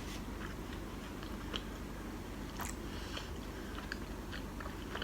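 Faint, wet mouth clicks and soft chewing as a person eats a piece of warabi mochi, a soft, sticky jelly cake.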